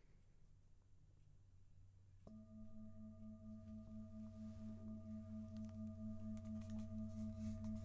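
A singing bowl sounded about two seconds in, then held as a steady low ringing tone that slowly swells, wavering in a regular pulse about four times a second.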